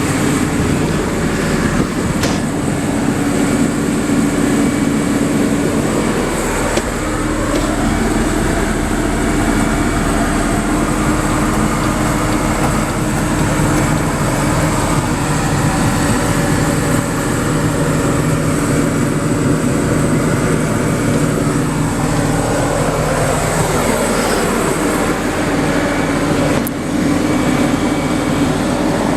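JCB JS145LC tracked excavator running, its diesel engine and machinery making a steady loud noise whose pitch shifts and glides in places as it works.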